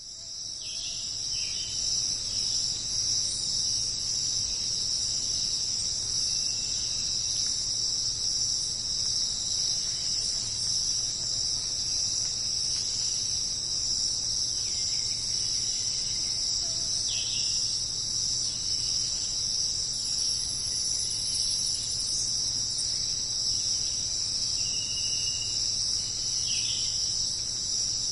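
Dense jungle insect chorus: a continuous high-pitched trilling that fades in from silence at the start and then holds steady, with a few short, lower calls now and then.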